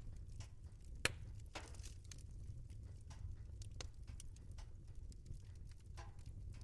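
Wood fire in a fireplace crackling: frequent sharp snaps and pops over a low steady rumble, with one loud pop about a second in followed by a brief hiss.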